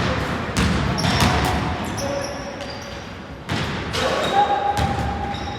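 A basketball bouncing on a gym floor during play: a string of irregular thuds, with players' voices in between.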